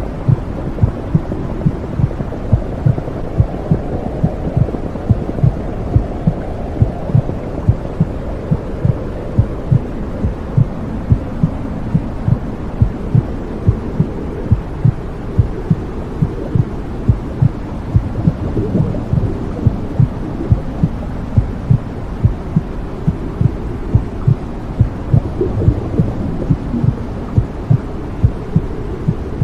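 Womb sound: a heartbeat thumping steadily at about two beats a second over a steady low whooshing rumble.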